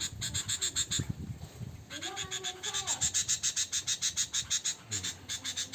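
Caged bird giving rapid, evenly repeated sharp chips, about five or six a second, a noisy, agitated chatter.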